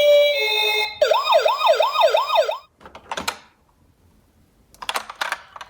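Toy emergency-vehicle minicar's electronic siren: a steady two-note tone, then a wailing siren rising and falling about twice a second that cuts off suddenly. A few short clicks follow near the end.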